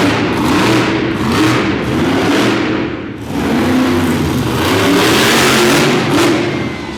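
Monster truck engine revving hard, its pitch rising and falling, easing off briefly about three seconds in and then running at full throttle again.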